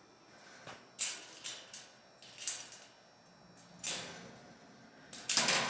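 Irregular metallic clicks and short scrapes from a stainless steel bird cage's parts being handled. The loudest scrape comes near the end.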